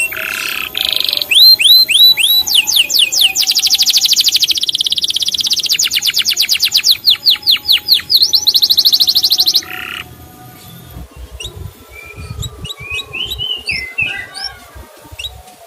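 Canary song: loud, fast trills and rolls of rapidly repeated sweeping notes that cut off suddenly about ten seconds in, followed by softer scattered chirps.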